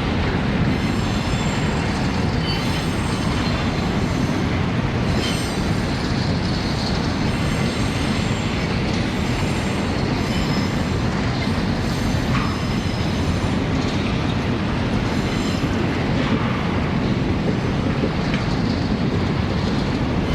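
Freight train rolling past: a steady rumble of steel wheels on rail, with high-pitched wheel squeals coming and going every second or two.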